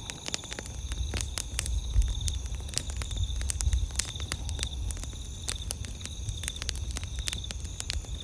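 Campfire crackling, with many irregular sharp pops and snaps over a low rumble of the burning fire. Behind it, night insects keep up a steady high pulsing trill.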